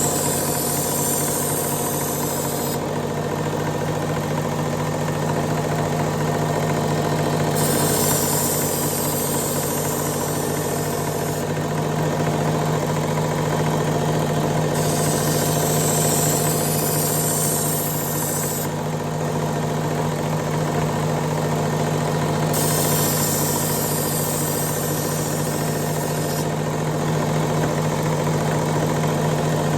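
Work Sharp Ken Onion belt grinding attachment running steadily with an X22 belt. A knife edge is ground on the belt in repeated passes of about four seconds each, each one adding a hissing grind over the motor hum, about four times.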